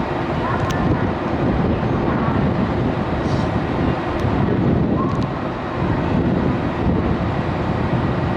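JR 113 series electric train pulling away from the platform, a steady rumble of motors and wheels on the rails.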